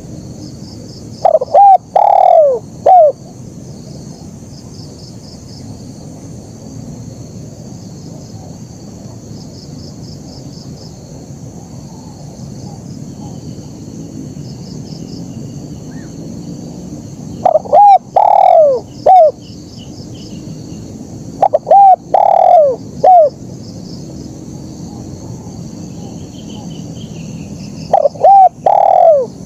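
Spotted dove cooing: four bouts of its short phrase of three or four falling coos, a few seconds apart, the first about a second in and the last near the end. A steady high insect trill runs underneath.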